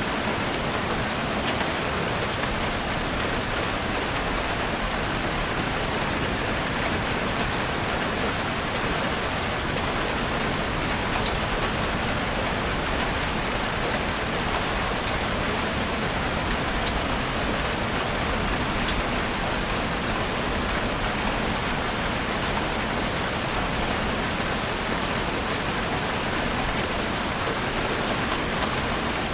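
Heavy rain drumming steadily on a roof, a dense even patter with countless individual drop hits.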